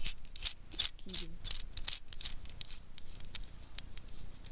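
A nut being screwed by hand onto a bolt: a run of small irregular scratching clicks as the threads turn.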